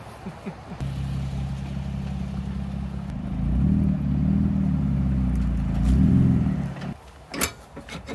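A motor vehicle's engine running with a low hum that swells and rises in pitch about three seconds in and again near six seconds, then cuts off suddenly about a second before the end, followed by two short clicks.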